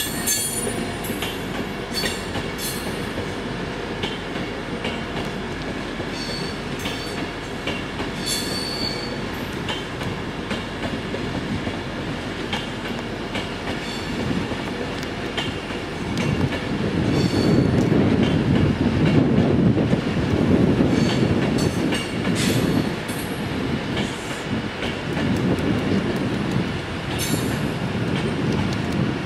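Virgin Class 390 Pendolino electric train running past the platform: a steady wheel-and-rail rumble with short high wheel squeals and clicks over the rail joints. The rumble grows louder about halfway through.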